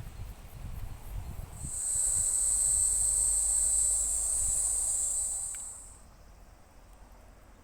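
An insect's steady high-pitched buzz that sets in about a second and a half in and stops abruptly around six seconds, over a low rumble in the first couple of seconds.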